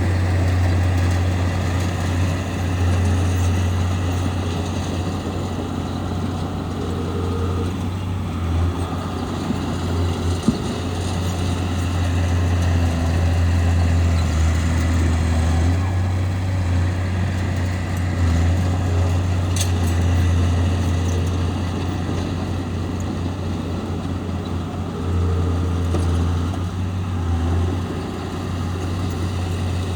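Bulldozer's diesel engine running under working load, a steady low drone that swells and dips as it pushes dirt, with one sharp knock about ten seconds in.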